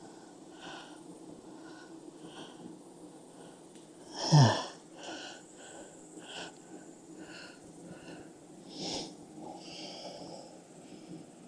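Honeybee colony humming steadily at an open hive, over a run of short soft airy puffs. About four seconds in, a bee flies close past the microphone in a loud buzz that drops sharply in pitch.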